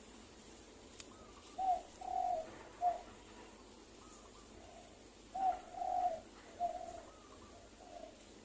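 Spotted doves cooing: two phrases of three or four low coos, about a second and a half into the sound and again about five seconds in. Fainter, higher coos from a second dove come between them.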